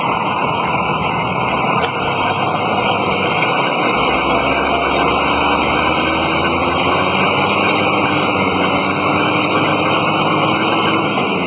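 An engine running steadily under a loud, even rushing noise, its pitch creeping slightly higher in the second half.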